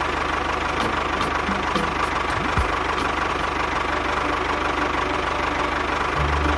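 Small motor of a DIY mini tractor running steadily, with a low hum that grows louder near the end.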